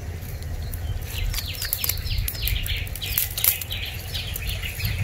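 Small birds chirping: a rapid series of short, falling chirps, about three a second, starting about a second in, over a low rumble.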